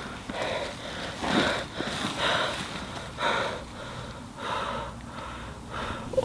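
Heavy breathing: noisy breaths coming about once a second.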